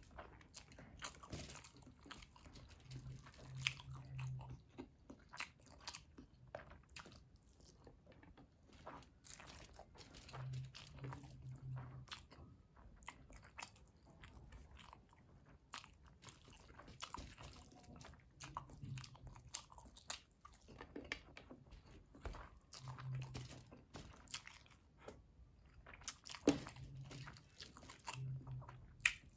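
A person eating biryani by hand, close to the microphone: chewing with many small mouth clicks and lip smacks, and a few short low hums every several seconds.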